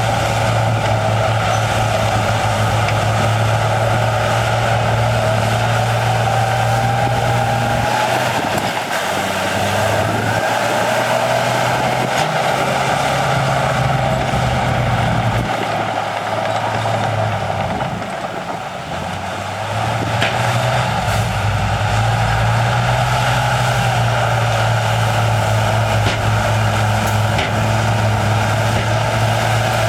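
Heavy diesel earthmoving machinery running and working, its engine note dipping and coming back several times as the load changes, with a steady high whine over it.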